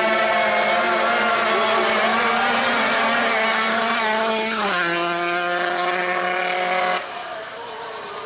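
Drag-racing motorcycle engine at high revs. The pitch drops once, a little past halfway, then holds steady.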